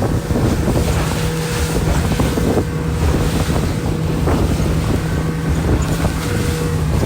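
Wind buffeting the microphone over a steady engine hum.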